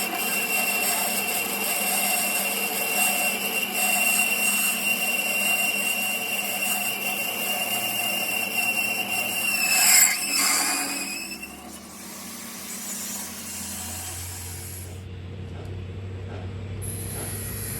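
An electric power tool or workshop machine runs with a steady whine, then is switched off about ten seconds in, its pitch falling as it spins down. Quieter low workshop noise follows.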